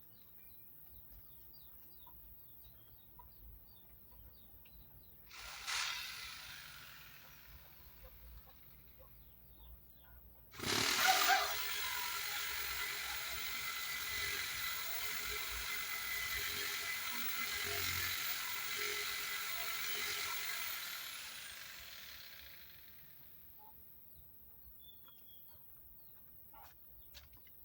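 Power saw cutting into a hardwood timber beam: a brief burst about five seconds in, then a steady run of about ten seconds that winds down gradually.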